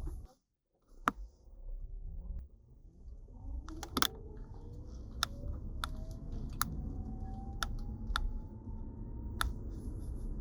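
Sharp, irregular clicks from the steering area of a 2022 MG ZS EV as the steering wheel is turned, about nine of them, over a low rumble. A faint whine rises slowly in pitch through the middle. The owner does not know the cause.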